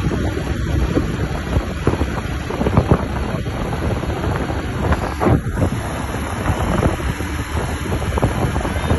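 Wind buffeting the microphone: a heavy, gusting rumble with irregular swells.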